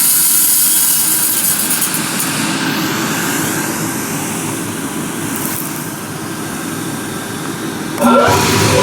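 Vikhr-2000 grain-heap aeration fans running: a loud, steady rush of air and electric motor noise. About eight seconds in the sound jumps louder and a tone glides up and then down, as another fan comes up to speed.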